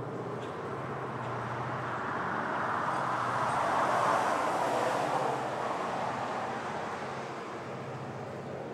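Coke train rolling past: a steady low rumble under a rushing noise that swells to its loudest about four seconds in and then fades.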